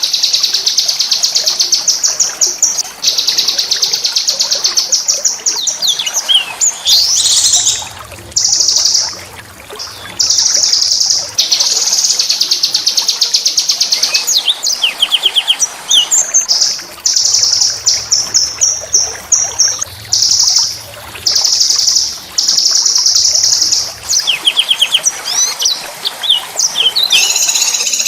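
Small songbird singing long, high, rapid trills of fast repeated notes, with short rising and falling whistles between the runs.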